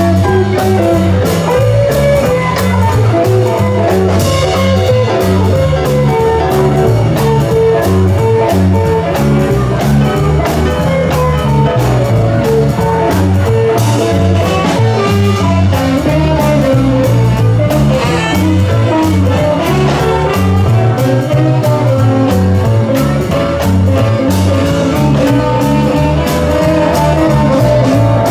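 Live band playing an instrumental stretch of a blues or swing number, led by electric guitar over a walking bass line and drum kit.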